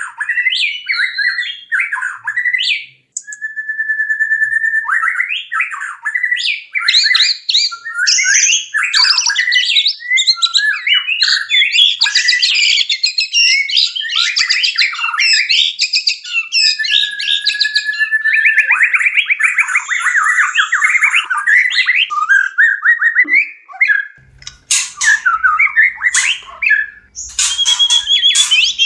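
White-rumped shamas' courtship song: a dense, unbroken run of varied whistles, warbles and fast trills. Near the end it turns harsher and clickier, with sharp chattering notes.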